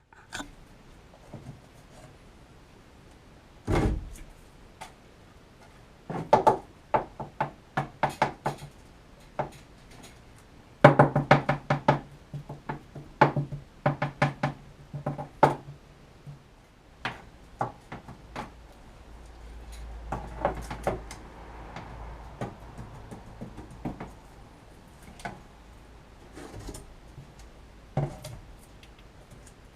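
Irregular knocks and clatters of hand work, busiest from about a quarter of the way in to the middle, with a low steady tone under the densest run.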